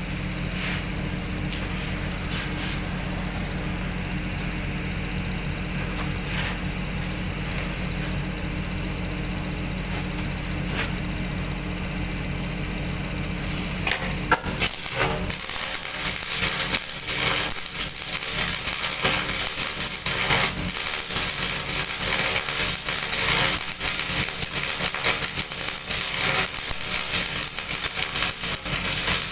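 A steady low mechanical hum that stops about halfway through, followed by dense, irregular metallic clinking and scraping.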